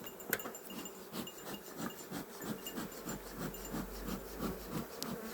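Honeybees buzzing around an opened hive, individual bees passing close by in many short rising-and-fading buzzes, with a single sharp click near the start.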